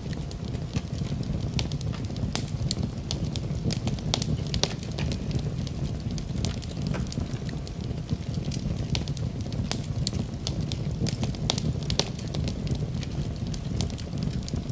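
Wood fire crackling in a fireplace: irregular sharp pops and snaps, several a second, over a steady low rumble of the flames. A soft even hiss of rain runs underneath.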